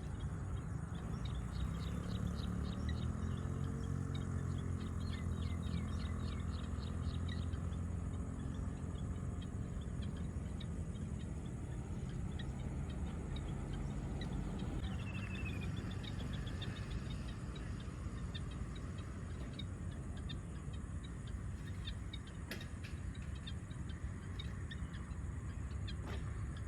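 Evening woodland ambience: birds and small creatures chirping in quick runs, with one falling bird call about halfway through, over the low hum of an engine that is strongest in the first half. A steady high-pitched tone runs underneath.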